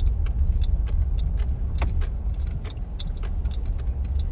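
Steady low rumble of a car heard from inside the cabin, with scattered sharp ticks throughout.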